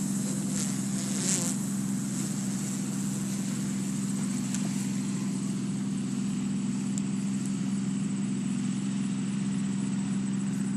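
Multirotor drone's propellers and motors humming at a steady pitch as it climbs away just after takeoff, its landing gear retracting.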